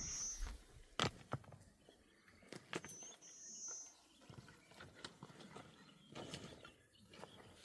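A bird calls twice, about three seconds apart: each time a short rising note and then a longer, slightly buzzy high note. Around the calls come scattered sharp clicks and crackles, the loudest about a second in.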